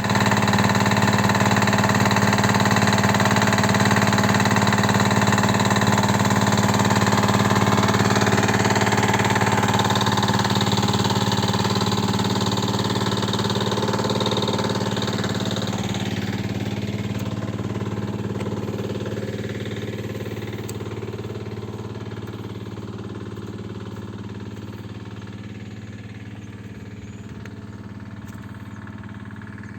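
Kirloskar 5 hp single-cylinder diesel engine running at a steady speed. It grows gradually quieter over the second half while its pitch stays the same.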